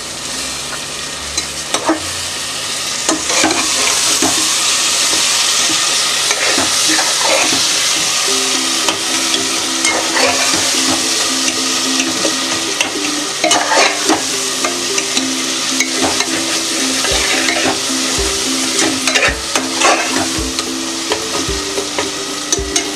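Masala frying in oil in a pressure cooker pot, sizzling steadily while a perforated metal spatula stirs it and scrapes against the pot now and then. The masala has cooked down to the point where it is releasing its oil.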